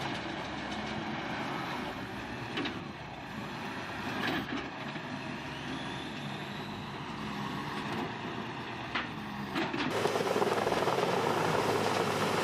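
Wood chipper running, its engine noise steady with a few sharp knocks. About ten seconds in it gives way abruptly to a louder, rougher rushing noise.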